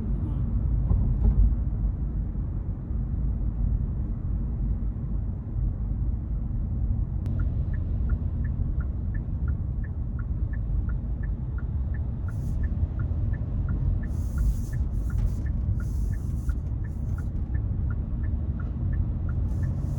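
Low road and engine rumble heard inside a moving Hyundai Casper. About seven seconds in, the turn-signal indicator starts ticking steadily, a few ticks a second in an alternating tick-tock. From about halfway on, short hissing bursts come and go over the rumble.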